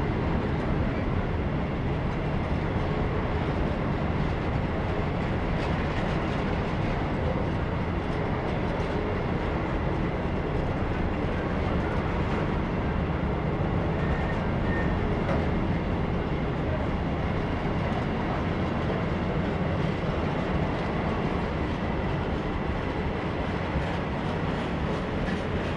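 A train running past on the rails, a steady rolling rumble of wheels and wagons.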